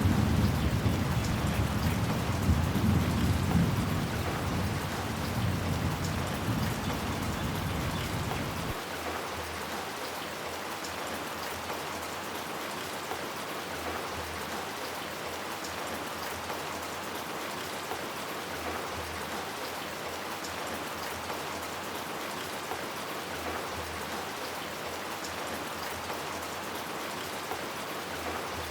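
Steady rain falling, an even hiss of drops. A low rumble of thunder under it fades and then ends abruptly about nine seconds in, leaving only the rain.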